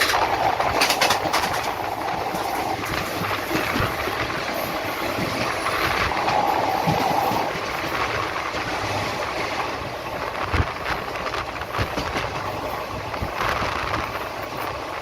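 Indian Railways passenger train running along the track: a steady rumble with irregular clicks and knocks from the wheels on the rails.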